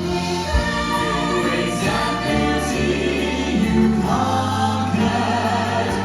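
Live band with a group of singers performing a song in sustained choral harmony.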